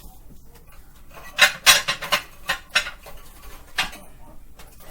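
Kitchen utensils clinking and scraping against a pan in a series of sharp knocks, bunched in the first half and with one more near the end, as food is moved around in the pan.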